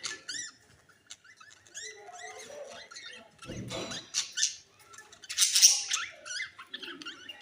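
Budgerigars squabbling: rapid chattering chirps, a brief low scuffle about halfway through, and a loud harsh squawk about three-quarters of the way in.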